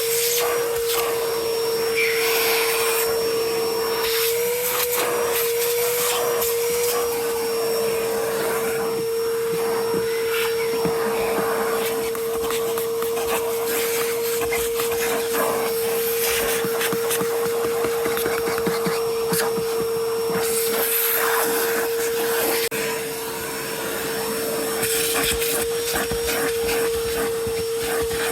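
Vacuum cleaner running steadily with a constant high whine, its nozzle working over the truck's interior with many small clicks and scrapes. The sound drops briefly about 23 seconds in.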